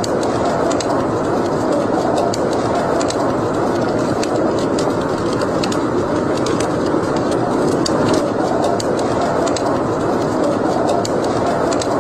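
Wood fire burning in a fireplace: a steady rush of flames with scattered sharp crackles and pops.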